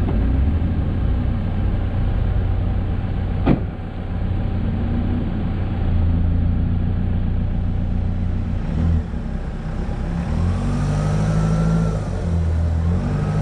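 Off-road 4x4's engine running and revving, its pitch stepping up and down several times, with one sharp knock about three and a half seconds in.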